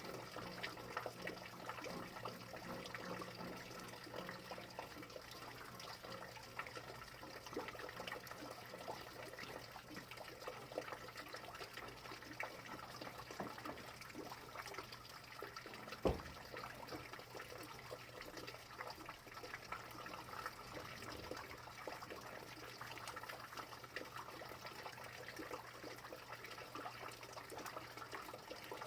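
Rain falling steadily, a constant hiss of many small drop hits, with a faint low hum throughout and a single sharp knock about sixteen seconds in.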